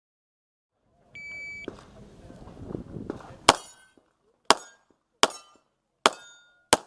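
An electronic shot timer's start beep, then five handgun shots spaced about a second apart.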